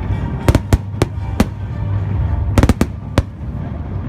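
Fireworks bursting overhead: a string of sharp cracks and bangs, a quick cluster about half a second in and another close-packed cluster near the end, over a steady low rumble.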